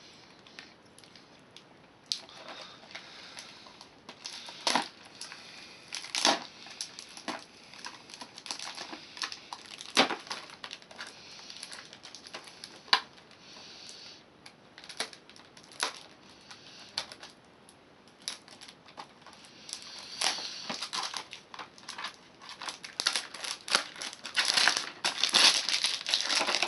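Plastic sweet packaging being crinkled and torn open by hand: irregular crackles and rustles, growing denser and louder near the end.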